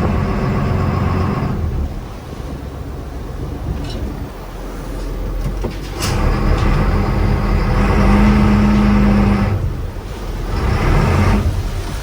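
Fishing boat's engine running with a steady low hum. It eases off about two seconds in and picks up again about six seconds in, with a short click at that moment. It is loudest just before ten seconds, then drops briefly and comes back.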